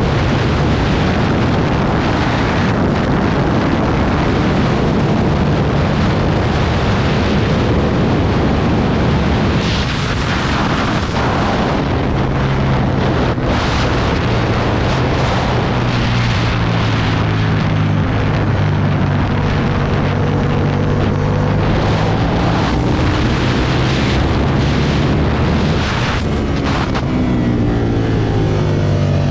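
Aprilia Tuono 1000 V-twin motorcycle ridden at speed, its engine note buried under heavy wind rush on the microphone. From about twelve seconds in the engine's steady note comes through more clearly, and its pitch shifts near the end.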